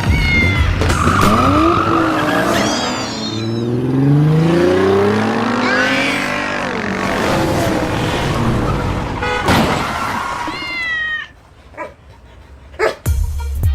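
A car engine revving, its pitch rising and falling through several passes, with short high squeals about two seconds in and again near ten seconds. The engine cuts away about eleven seconds in, followed by a few knocks.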